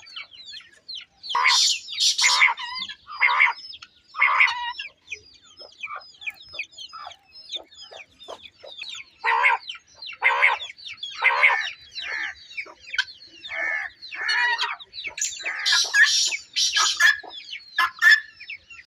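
Many quail calling together: a continuous stream of quick high chirps, overlaid by louder, harsher calls every second or so.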